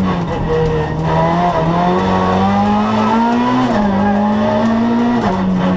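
Renault Twingo R2 rally car's four-cylinder engine heard from inside the cabin, running hard at high revs. Its pitch climbs, then falls sharply twice: once past the middle and again near the end.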